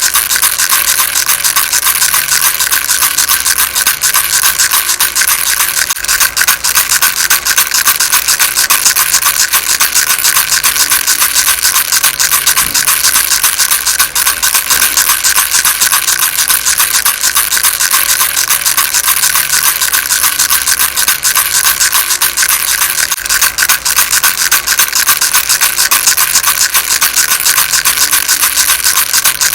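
Baby rattle shaken continuously: a fast, dense, bright rattling that never pauses.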